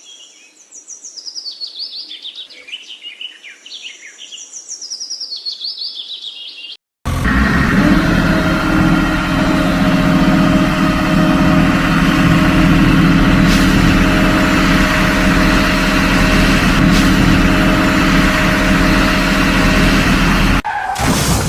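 Birds chirping rapidly for about seven seconds, then a sudden cut to a loud, steady engine running at a constant speed.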